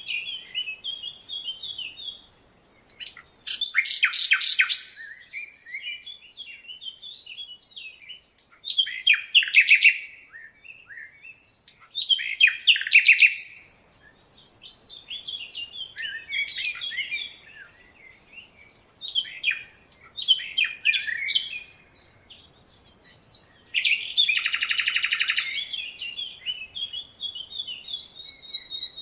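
Several birds singing and chirping in a jungle chorus: quick high chirps and warbles between louder, rapid trilled or buzzy phrases every few seconds.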